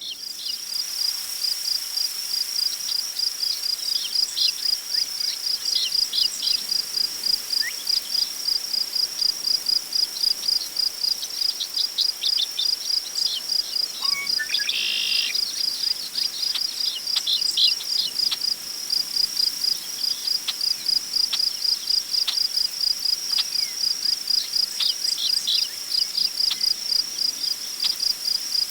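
Crickets chirping in a fast, even, high-pitched pulse that never stops, with scattered short, falling bird calls over it and one longer, louder bird call about halfway through. A soft hiss of wind in tall prairie grass lies underneath.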